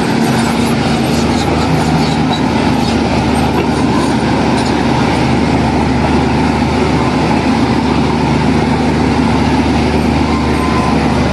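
Heavy diesel engine of earthmoving machinery running steadily, with a constant low hum and faint clicking.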